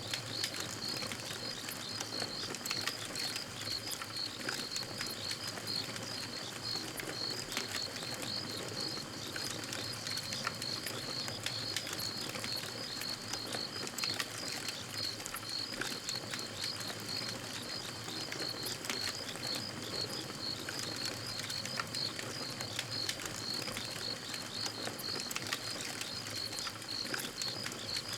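Campfire burning with scattered sharp crackles and pops. Under it runs a steady high chirping that pulses evenly, a few times a second.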